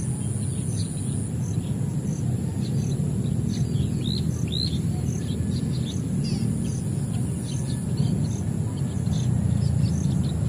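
Birds chirping in short, quick calls over a steady high insect drone and a regular high ticking pulse about two and a half times a second. A steady low rumble runs underneath.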